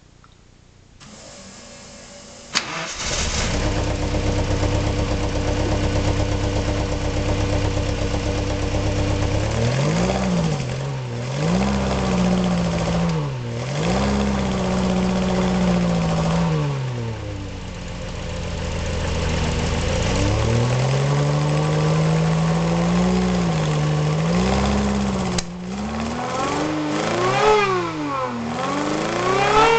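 Supercharged Alfa Romeo Giulia Super's twin-cam four-cylinder engine starting with a sharp click about two and a half seconds in, then idling steadily. From about ten seconds in it is revved repeatedly: a few quick blips, a longer hold at raised revs, and more quick blips near the end.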